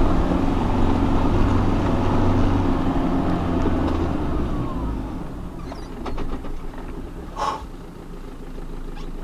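Off-road vehicle's engine running steadily, easing off about four seconds in and settling to a quieter idle. A short sharp noise comes near the end.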